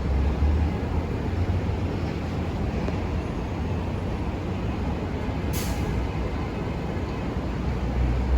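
New York City subway train at the platform, a steady low rumble of motors and running gear, with a short sharp air hiss from the brakes a little past halfway.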